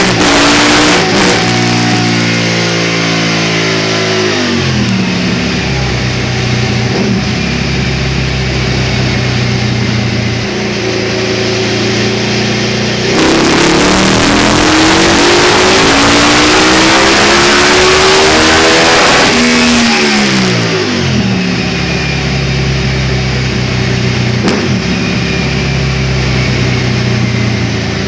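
KTM 990 SMT's V-twin with Akrapovic mufflers running on a dynamometer. The revs wind down over the first few seconds and then hold steady. About halfway through, a loud pull rises in pitch for about six seconds, then drops back to a steady lower speed.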